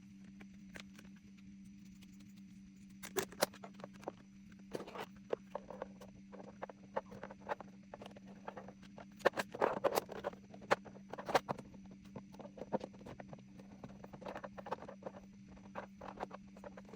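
Small objects being handled and set down on a table: irregular light clicks, taps and short rustles, busiest in the middle, over a steady low hum.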